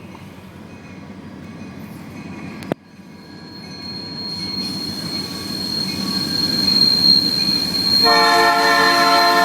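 Freight train with EMD locomotives approaching, its rumble growing steadily louder, with a thin high squeal from about three seconds in and a sharp click just before it. About eight seconds in, the lead locomotive's air horn starts to sound, a held chord of several notes.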